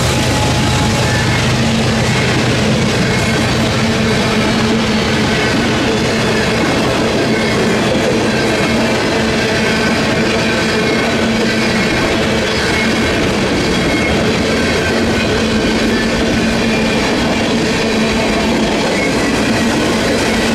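Union Pacific mixed freight train rolling past close by, its freight cars' steel wheels running on the rails in a loud, steady clatter.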